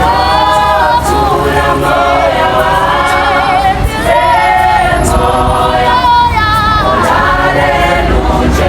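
Choir singing: several voices together in wavering sustained notes over a steady low bass.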